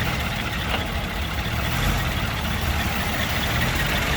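Antique car engines running at low speed as the cars roll slowly past. A steady low engine drone sets in about two seconds in.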